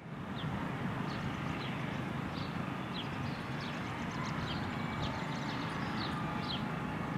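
Outdoor ambience: small birds chirping repeatedly, short falling chirps about one or two a second, over a steady low rumble.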